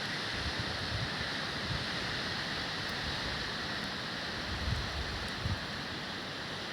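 Strong wind rushing through forest trees, a steady hiss, with a few low buffets of wind on the microphone in the second half.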